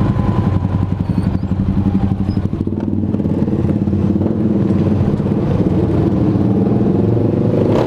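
Honda Supra underbone motorcycle's single-cylinder four-stroke engine running while being ridden. It is uneven for the first three seconds or so, then holds steady.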